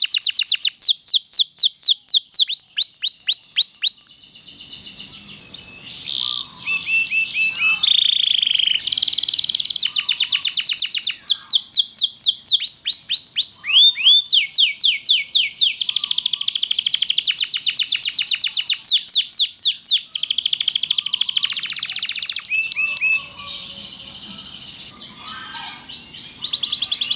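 Domestic canary singing a long song of rapid rolling trills: quick series of repeated falling notes, with phrases changing every second or two. The song goes softer for a couple of seconds about four seconds in and again near the end.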